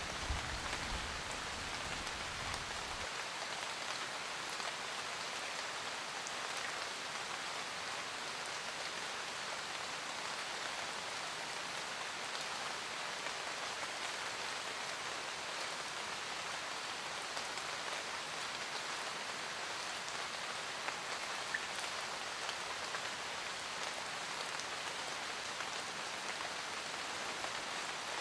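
Steady rain pattering on a roof, an even hiss of drops. The low tail of a distant thunder rumble dies away about three seconds in.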